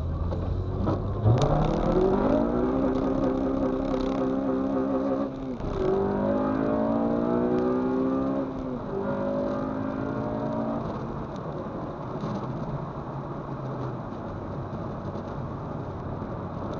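2006 Honda Civic Si's 2.0-litre four-cylinder engine, heard from inside the cabin, pulling hard and rising in pitch through the gears, with upshifts a little past five seconds and near nine seconds. After about eleven seconds it settles to a steady cruise under a hiss of tyres on wet pavement.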